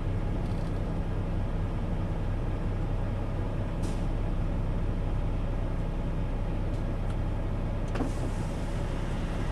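Semi truck's diesel engine running steadily, a low even drone heard from inside the cab, with a couple of faint clicks.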